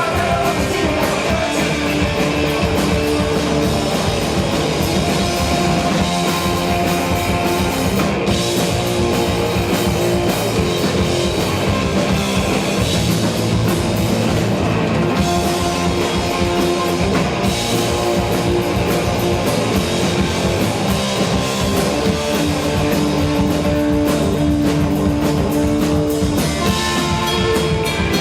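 Live rock band playing: loud guitars and a drum kit, heard as a full-band instrumental passage with no vocals.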